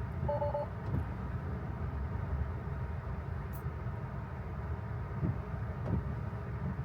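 Steady low road and tyre rumble inside a Tesla's cabin, driving on wet roads. A brief two-tone electronic chime sounds just after the start, and a few faint ticks follow later.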